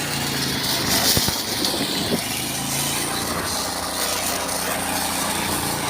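Excavator engine running steadily, with a couple of short knocks about one and two seconds in.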